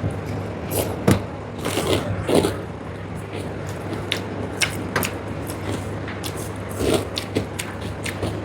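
Close-miked mukbang eating sounds: chewing, with hands working rice and vegetables and scraping on the plate, making short irregular clicks and crackles over a steady low hum.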